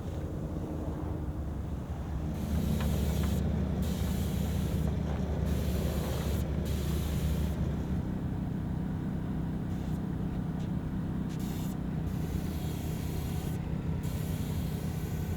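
A motor or engine running steadily with a low drone. Spells of hissing start and stop abruptly over it, the first a couple of seconds in and the second near the end.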